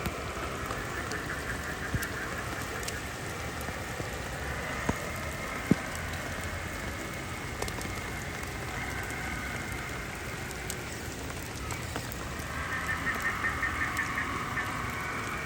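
Steady rain falling, with a few sharp taps of drops. A higher buzz comes and goes over it, returning with a quick pulsing near the end.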